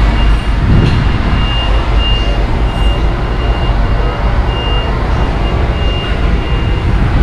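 Heavy truck's engine running with a loud, steady low rumble, while a high-pitched beep repeats about twice a second and stops near the end.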